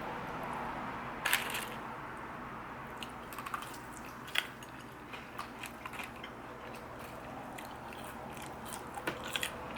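Someone biting into and chewing crispy fried food, with irregular sharp crunches over a steady background hiss, the loudest about a second in and near the end.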